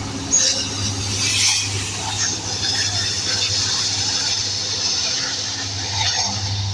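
Loaded freight cars of a manifest train rolling past, with steel wheels squealing against the rails and the cars rattling and clanking, over a steady low hum.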